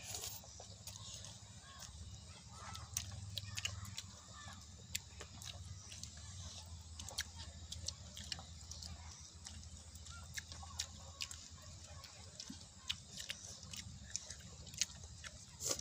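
Children chewing and smacking their lips while eating rice and pork with their hands, an irregular scatter of small wet clicks over a low steady hum.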